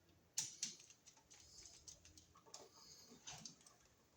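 Faint clicks and taps of a screwdriver and a wall receptacle being handled as a terminal screw is tightened, with one sharper click about half a second in.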